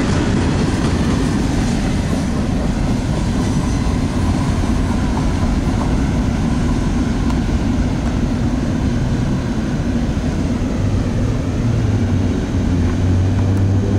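Freight train cars rolling past with a steady, continuous rumble. A low steady hum comes up about eleven seconds in.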